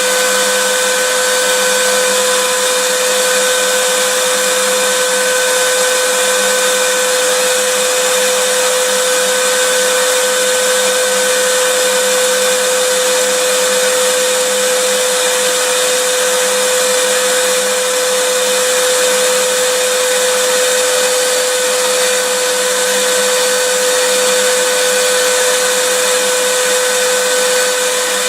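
Vacuum cleaner running steadily: a constant rushing hiss of air with a steady motor whine, no change in pitch or level.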